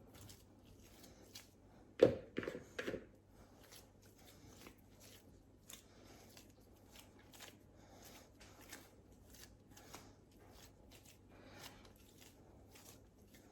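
Faint kitchen handling noises while working a dough mixture: light scraping and rustling, with a brief cluster of louder knocks about two seconds in.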